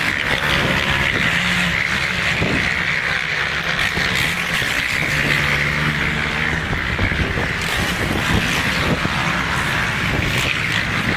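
Motocross dirt bike engine running, its pitch rising and falling with the throttle, over a steady rushing hiss.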